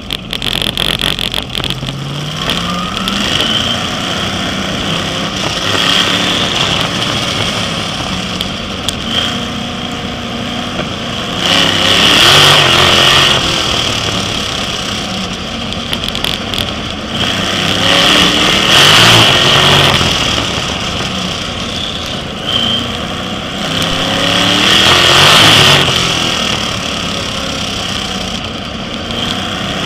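Sprint car's V8 engine at racing speed, revving up along the straights and easing off into the turns, so the sound swells and falls about every six or seven seconds.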